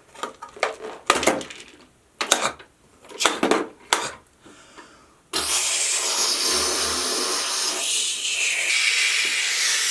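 A few short separate sounds, then about five seconds in a loud, steady jet-engine rush starts suddenly, a take-off sound effect for the toy airplane.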